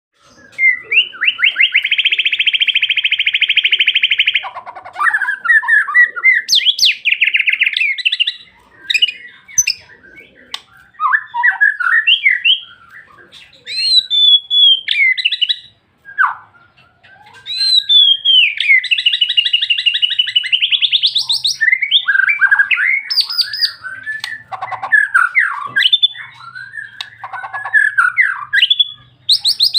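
White-rumped shama (murai batu) singing a long, varied song of gliding whistles and chattering notes, with fast rapid-fire trill runs about a second in and again about two-thirds of the way through.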